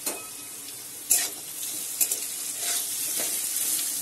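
Chopped onion and half-fried potato strips sizzling in hot oil in a metal wok, the sizzle growing louder as they are stirred. A metal spatula scrapes and knocks against the pan about four times.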